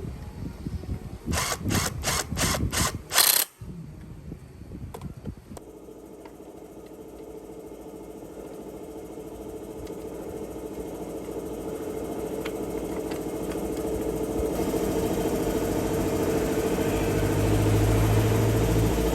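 A few seconds of sharp clattering with about six quick rasps, then a small motor starts and runs steadily, growing gradually louder.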